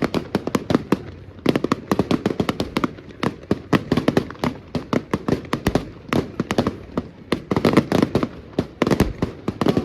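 Firecrackers going off in a rapid, irregular string of sharp cracks and bangs, several a second, with a short lull about a second in.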